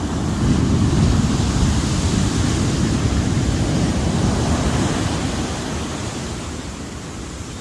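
Ocean surf: a wave breaking and washing up the beach, a thick rushing noise that swells about a second in and slowly ebbs away.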